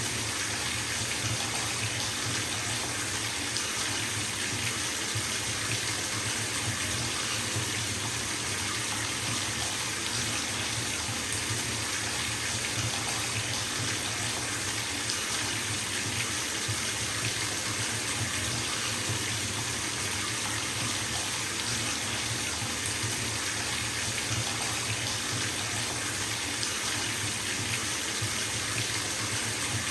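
Water running steadily from a bathtub tap into the filling tub, a constant even rush with a low rumble underneath.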